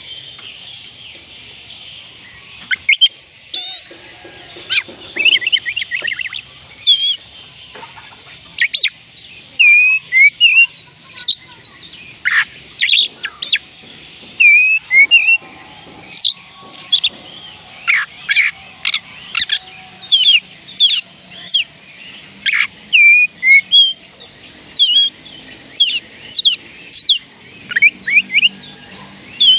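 Oriental magpie robin singing: a long run of short, varied whistled notes and quick up-and-down phrases, one after another with brief gaps.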